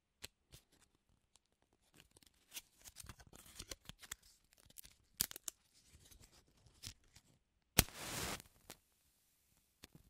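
Matchbox and matches handled, with small clicks and rattling. About eight seconds in, a match is struck: one sharp scrape followed by a short hiss as the head flares.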